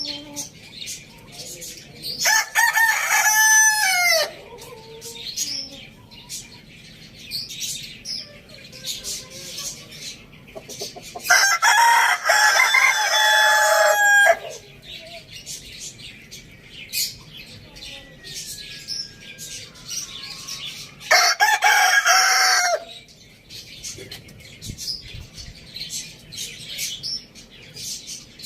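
Rooster crowing three times, the second crow the longest at about three seconds, with small birds chirping between the crows.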